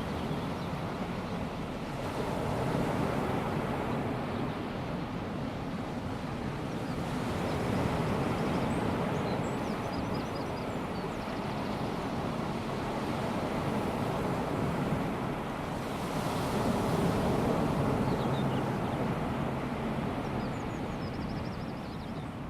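Calm sea: small waves breaking and washing on a sandy beach, a steady hiss that swells and eases every few seconds. A few faint high chirps sound now and then.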